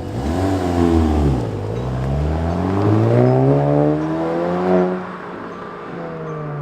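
Volkswagen GTI's turbocharged 2.0-litre four-cylinder revving through a muffler-deleted catback exhaust. A quick blip rises and falls in the first second and a half, then a longer rev climbs steadily for about three seconds before dropping back toward idle.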